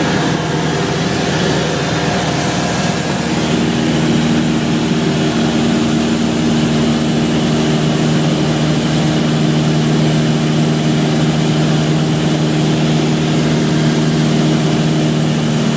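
Cessna 172 floatplane's piston engine and propeller running steadily at low power while holding before takeoff. The engine note shifts slightly about three seconds in, then holds steady.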